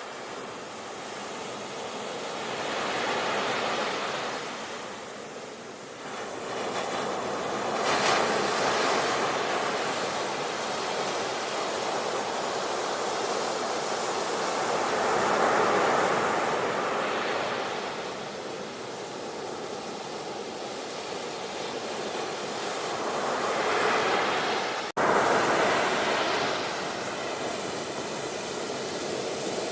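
Sea waves breaking and washing up the shore, surging and ebbing in slow swells every several seconds. About 25 seconds in, the sound cuts out for an instant and comes straight back louder, like a splice in a looped recording.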